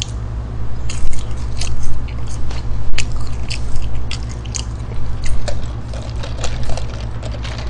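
Close-miked chewing and biting of McDonald's fried food, with a run of short crisp crunches in the first half that thin out later. A steady low hum runs underneath.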